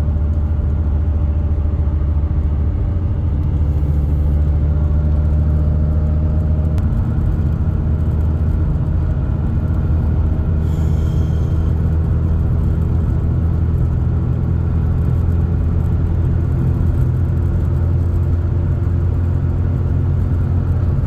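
Hyundai Getz heard from inside while cruising: a steady engine drone with a low road rumble, the engine note drifting slightly in pitch.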